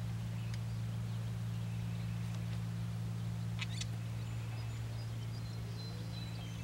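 Birds giving scattered short calls and chirps, a sharper call about three and a half seconds in and a few brief high whistled notes after it, over a steady low hum.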